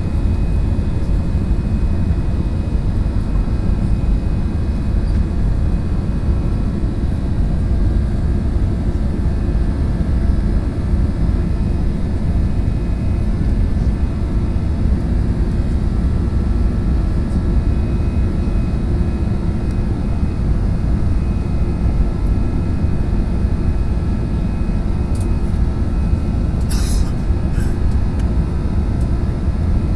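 Steady loud rumble of an airliner's jet engines and airflow heard from inside the cabin during takeoff and climb, with faint steady whining tones. A brief sharp click comes near the end.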